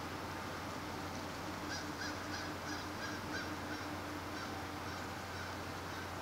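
Birds calling in a quick run of short, honk-like calls, over a steady low hum.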